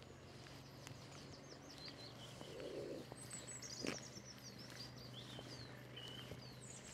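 Small birds chirping and twittering in quick short calls, with one sharp tap about four seconds in.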